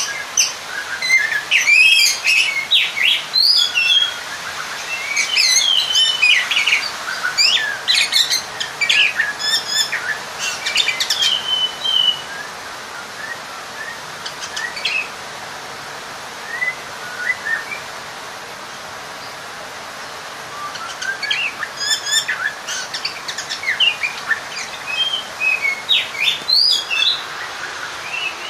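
Oriental magpie-robin singing a fast, varied run of whistles, slurred notes and sharp chirps: the challenge song of a bird seeking a rival. The singing thins to a few soft notes about halfway, then picks up again, over a steady hiss.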